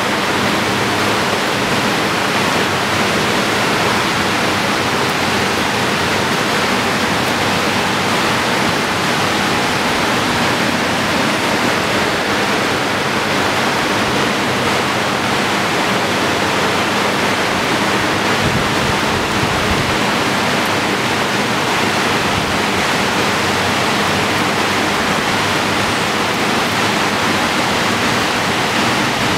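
Heavy rain falling steadily over the city, a dense, even hiss of water that does not let up.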